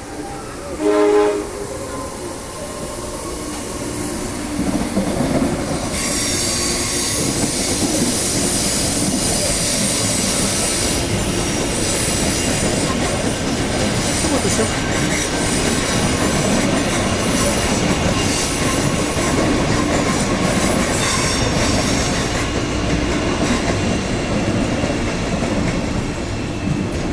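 Electric commuter train gives a short horn blast about a second in, then rolls past, its wheels squealing high-pitched for much of the passage over the rail noise.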